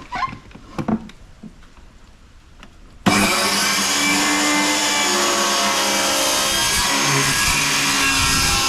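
An electric power saw switches on suddenly about three seconds in and runs steadily at full speed, its pitch wavering under load as it cuts plywood. A few light knocks come before it starts.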